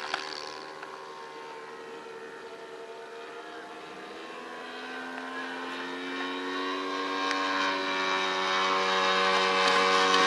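Saito FG-14 four-stroke gasoline engine of an RC model airplane in flight, turning a three-bladed propeller with a steady drone. It dips a little in level early on, then grows steadily louder over the second half.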